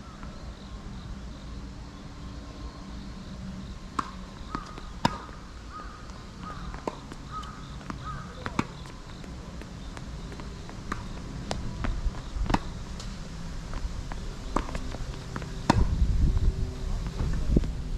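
Tennis ball struck by rackets and bouncing on a hard court: sharp knocks one to two seconds apart, over wind rumbling on the microphone that grows stronger near the end.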